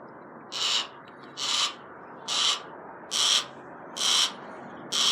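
Barn owl hissing in short, regular bursts, six in a row about one a second.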